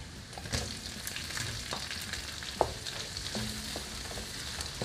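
Garlic, onion and shrimp heads frying in hot butter and olive oil, a steady sizzle. A wooden spatula stirs them, with a few sharp knocks against the pan, the loudest a little past halfway.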